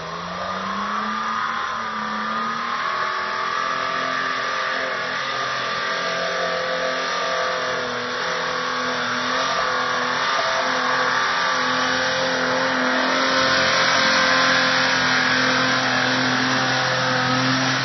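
Off-road 4x4's engine revving up, then running steadily under load as it drives along a rutted dirt trail. The engine grows gradually louder as the vehicle comes closer.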